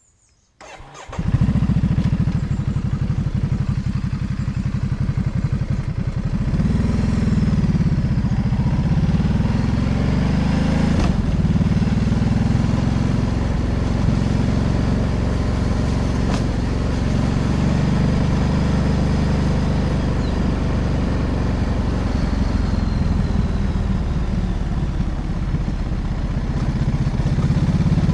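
Ducati DesertX Rally's 937 cc V-twin engine starting about a second in, then running loud and steady, its revs rising and falling a few times, with a single sharp click about eleven seconds in.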